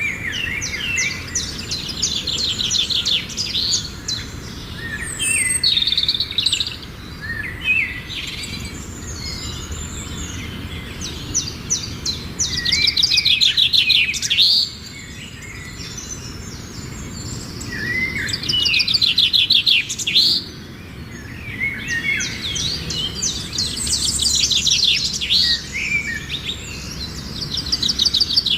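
Birdsong: a songbird singing repeated phrases of fast, high trills and chirps, a new phrase every few seconds, over a steady low background hiss.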